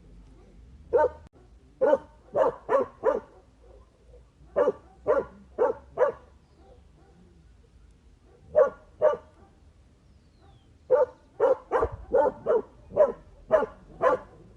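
Dog barking in short, sharp barks that come in bursts: one bark, two runs of four, a pair, then a run of about eight quick barks near the end.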